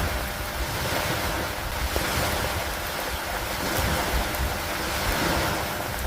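Steady rain with wind: a dense hiss that swells and eases gently over a low rumble.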